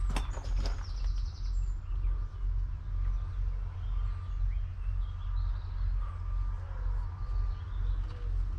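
Birds chirping faintly over a steady low rumble, with a few sharp clicks right at the start.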